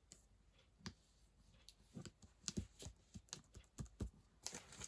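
Light, irregular clicks and taps of small craft supplies being handled on a table, with a brief rustle near the end.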